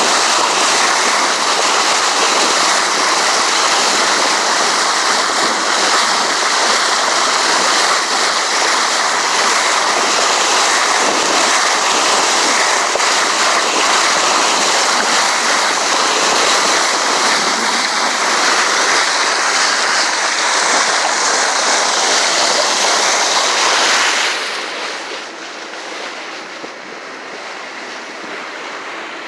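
Steady, loud rush of sea water along a moving sportfishing boat, an even hiss with no clear pitch. Near the end it drops abruptly to a quieter, duller rush.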